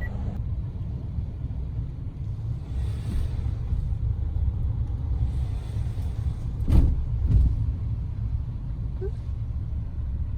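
A steady low rumble, like a vehicle running, with two sharp thumps about half a second apart a little before halfway through the last third.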